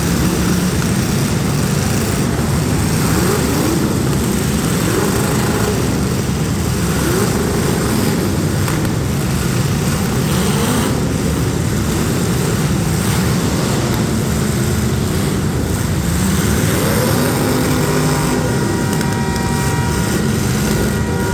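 Several street stock derby car engines running and revving together, their pitches rising and falling over one another. Near the end, a few steady high tones join in.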